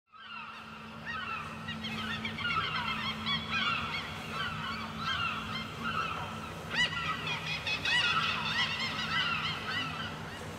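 A flock of birds calling, many short cries overlapping and rising and falling in pitch, over a steady low hum.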